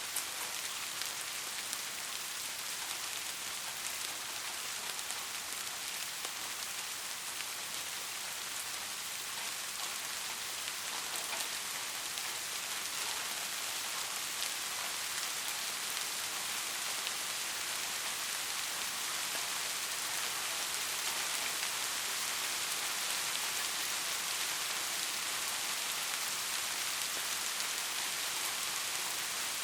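Steady rain falling, an even hiss with faint scattered drop ticks, a little heavier in the second half.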